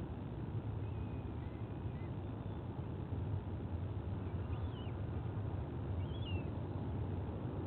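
A steady low outdoor rumble with a few faint, thin, high whistled bird calls: one around the first two seconds, then two short ones about halfway and about three-quarters through.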